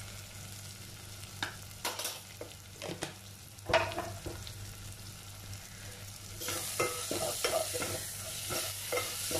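Tomato-and-spice masala frying in oil in an aluminium pot, with a few light clicks of a steel spoon against the pot in the first half. From about six and a half seconds in, the sizzle grows louder as the spoon stirs and scrapes the freshly added turmeric and coriander powder through the oil.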